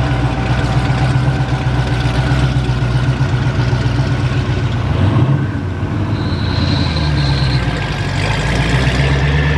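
Loud, steady rumble of a car engine running at low revs, its pitch shifting a little past halfway.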